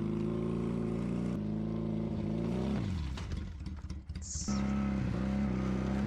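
A small 250 cc motorcycle engine running while the bike is ridden. The engine pitch drops about three seconds in, eases off briefly with a short hiss, then settles to a steady lower note before dropping again at the end.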